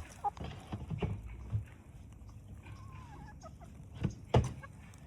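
Farm animals at their feed, making a few knocks and thumps, the loudest about four seconds in, with one faint short call in the middle.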